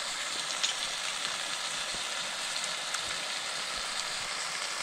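Chicken sizzling in hot oil in a wok: a steady frying hiss with scattered small pops.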